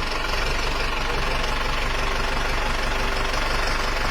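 Tractor engine of a homemade JCB-style loader built from a tractor, running steadily.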